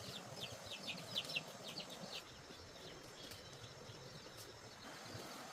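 Bird chirping: a quick run of short high chirps, about five a second, then fainter ones after about two seconds, over a steady hiss.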